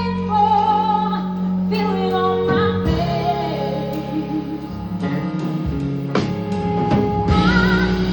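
Live band playing a jazz-pop ballad with a female lead vocalist, who sings wavering held notes near the start and comes back in near the end, with the band carrying the middle on sustained chords.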